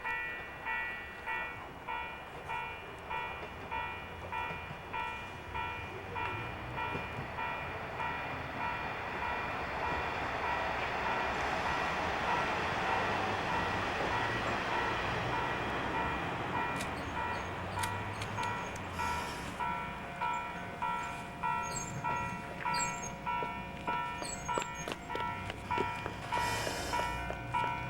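Level-crossing warning bell ringing in a steady, even ding-ding rhythm, about one and a half strokes a second. A train passes in the middle, its rushing noise swelling and fading. Sharp clicks and brief hisses follow near the end.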